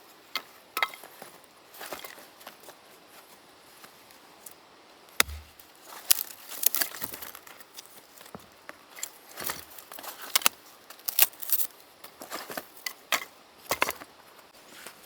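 Firewood being split by hand: irregular sharp cracks and knocks of wood, with one heavier thump about five seconds in.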